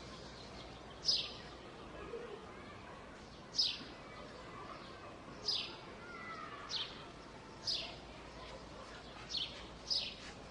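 A bird giving short, high calls that each slide quickly downward, repeated every second or two, over a steady background hum of the city.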